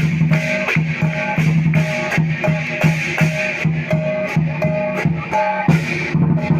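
Barongsai lion dance music played on drums with a steady beat of about two to three strikes a second.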